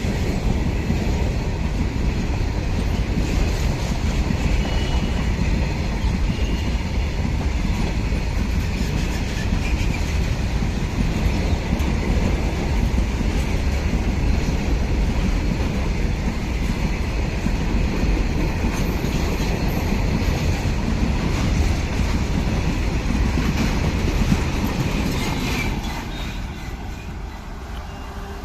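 Railway wagons rolling past on the track, a steady loud rumble with clickety-clack of the wheels, which falls away about 26 seconds in as the train passes.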